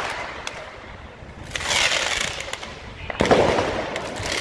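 Fireworks going off in crackling bursts: one starts about a second and a half in, and a louder one opens with a sharp bang a little after three seconds.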